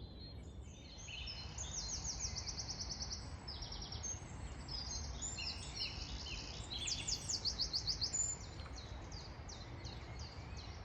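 Songbirds singing: fast trills of rapidly repeated high notes and assorted chirps, busiest from about a second in until near the end, over a steady low rumble.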